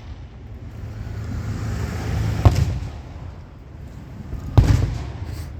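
Fireworks going off: two sharp booms about two seconds apart over a low rumble.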